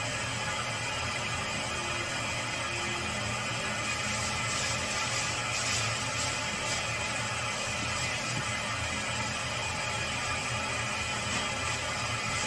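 Steady machine noise with a constant low hum, running evenly without pause.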